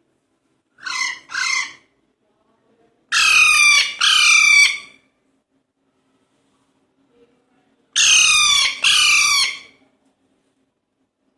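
Three-month-old Alexandrine parakeets squawking in harsh, grating calls. The calls come in three pairs: a softer pair about a second in, then two loud pairs a few seconds apart.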